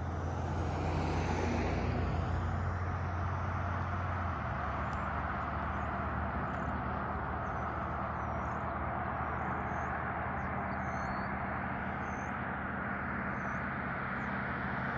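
Norfolk Southern manifest freight train passing: the diesel locomotive's engine drones low for the first few seconds, then the steady rolling noise of the freight cars on the rails takes over. Faint short high chirps come and go over the rolling noise.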